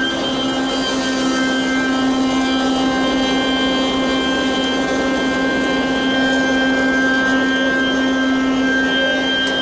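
BSG-300 universal crusher grinding line running at full operation, with grinder, blower and dust collector going together: a loud, steady mechanical hum and whine with several held tones.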